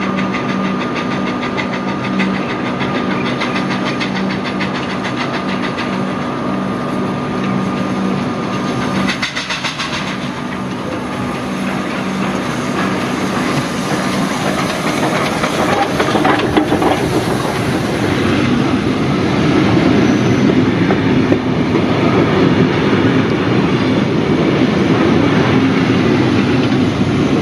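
A steam-hauled train of Tait carriages running along the track, its wheels clicking over the rails and growing louder in the second half as it comes closer. A steady pulsing tone sounds for the first nine seconds or so.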